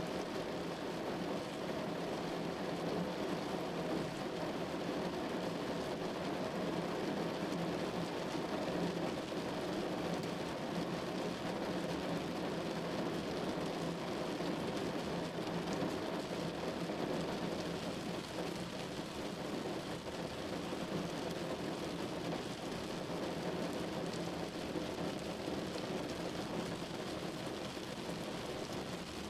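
Rain falling steadily on a window: an even, unbroken wash of noise with no pauses or separate drops standing out.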